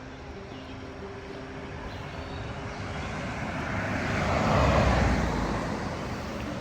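A vehicle passing on the road: its engine and tyre noise builds for several seconds, is loudest past the middle, then fades away.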